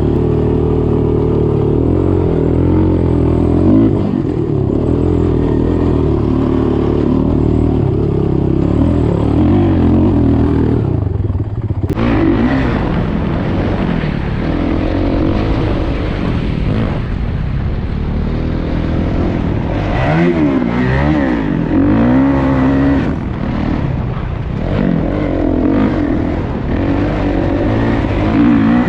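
Off-road vehicle's single-cylinder engine running under way, its revs rising and falling again and again as the throttle is worked.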